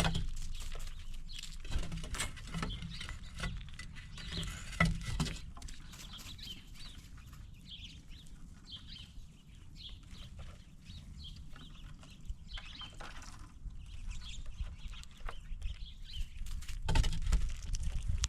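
Scattered taps, knocks and scratches of squirrels and birds feeding at a peanut table, with short bird chirps and a low steady rumble underneath. The loudest taps come near the start, about five seconds in, and near the end.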